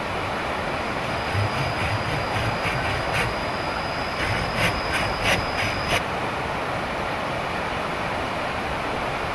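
Heavy rain falling steadily. From about a second in until about six seconds in, a run of sharp knocks and taps sounds over the rain, several close together near the end of that stretch.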